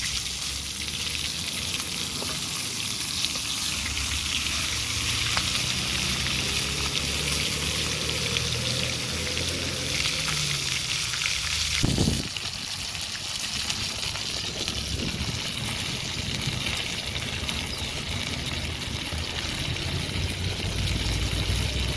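Chicken deep-frying in a pot of hot oil, sizzling steadily. About halfway through there is a single low thump, after which the sizzle is a little quieter.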